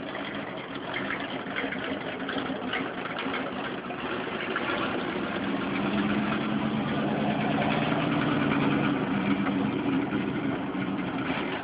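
Truck engine idling steadily, growing somewhat louder around the middle.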